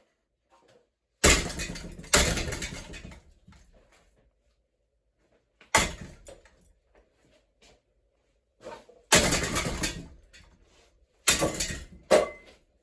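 An antique brass hugger ceiling fan being smashed apart: about six loud, sudden crashing impacts, each followed by a second or so of fading rattle, with quiet gaps between them.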